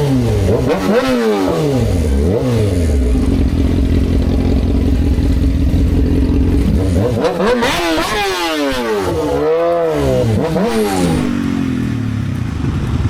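Motorcycle engine pulling through the gears: its pitch climbs and drops back at each upshift, three times in the first few seconds, then holds steady. After about seven seconds the revs swing up and down several times.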